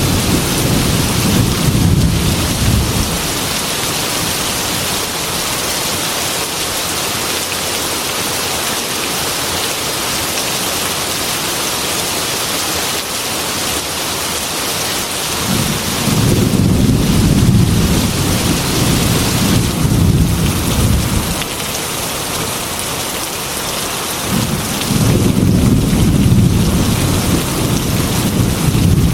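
Heavy rain falling steadily on a glass window, with low rolling thunder rumbling three times: as it begins, about halfway through, and again near the end.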